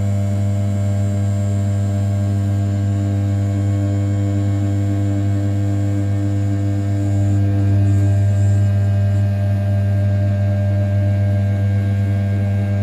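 500 W brushless spindle of an RZ420 desktop CNC mill running at 6000 rpm while an end mill rough-cuts the outer profile of A7075 aluminium: a loud, steady low hum with overtones, swelling slightly about eight seconds in.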